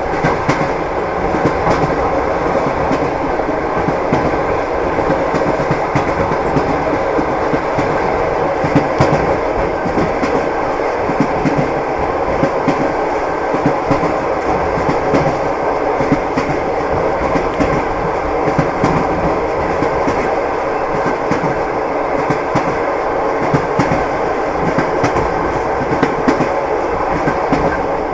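Passenger train wheels clacking over the rail joints, with the steady rumble of a moving carriage heard from inside it; frequent sharp clacks run throughout.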